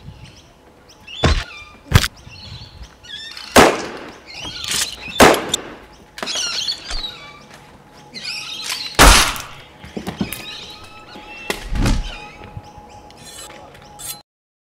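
Staged fistfight on a wooden footbridge: about seven hard hits and thuds at irregular intervals, with birds chirping between them. The sound cuts off suddenly near the end.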